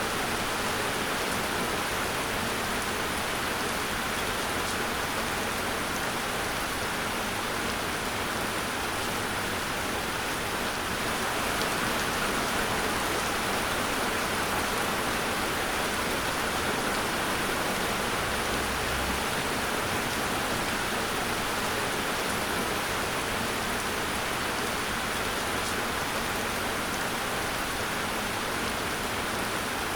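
Steady rain falling, a dense even hiss of drops with no thunder.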